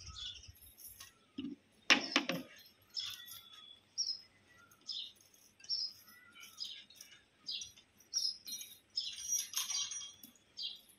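Small birds chirping in short, repeated calls. About two seconds in comes a loud clank, and a short clatter follows near the end.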